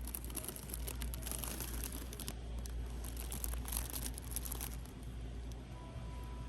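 Shop background noise: a steady low hum with scattered faint crinkling and small clicks.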